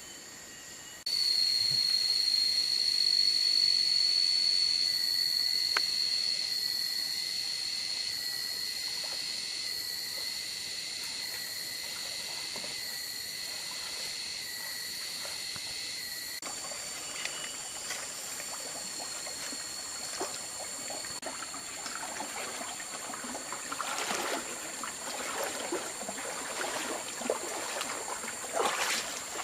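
A steady high-pitched insect drone starts abruptly about a second in, with a faint pulsing above it, and slowly fades. Partway through it gives way abruptly to a forest stream trickling and splashing, with scattered clicks and louder splashes near the end.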